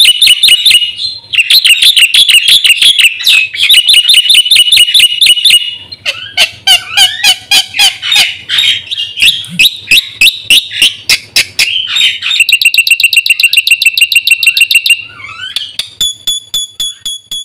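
Black-winged myna (jalak putih) in full, loud song: long runs of rapid, repeated harsh notes and varied chattering phrases, broken by brief pauses. Near the end it switches to a series of slower, clear repeated notes that fade away.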